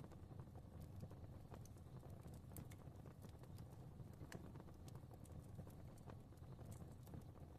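Faint fireplace fire crackling: a soft low rumble of burning with many small, irregular pops and snaps.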